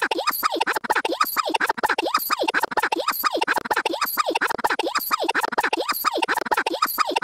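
A stuttering, scratch-like glitch effect: a short snippet of sound chopped and looped rapidly, with the pattern repeating about once a second.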